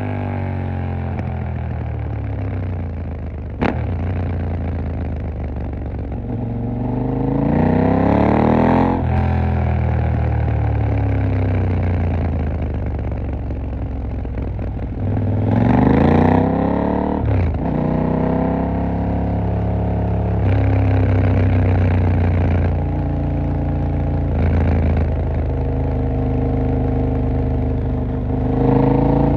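KTM 890 Duke R's parallel-twin engine in city riding: mostly steady at low revs, with two bursts of acceleration where the pitch rises through the revs and breaks off at a gear change, about a quarter and half way through. A single sharp click sounds a few seconds in.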